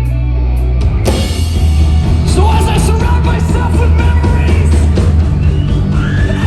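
Live post-hardcore rock band playing loud. A held low note gives way about a second in as drums and distorted guitars come in together, and a voice sings over the band from a couple of seconds on.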